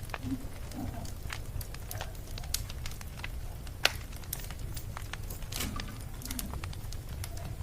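Wood fire crackling, with irregular sharp pops and snaps over a low steady rumble; one louder snap a little under four seconds in.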